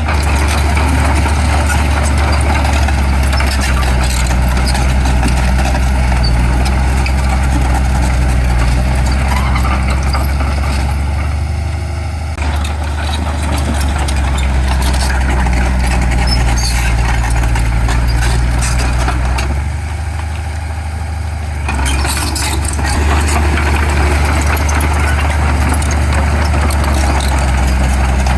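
Heavy diesel engine of earthmoving machinery running steadily with a deep hum. Its load and upper noise ease off briefly about twelve seconds in and again around twenty seconds in.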